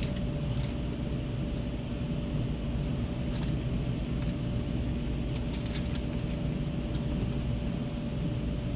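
Steady low rumble and hum heard from inside a minivan's cabin, with a faint steady tone and a few light clicks.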